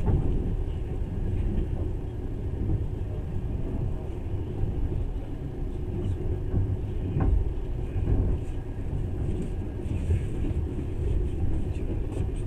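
Steady low rumble of a moving passenger train heard from inside the carriage, its wheels running on the rails, with a single short knock about seven seconds in.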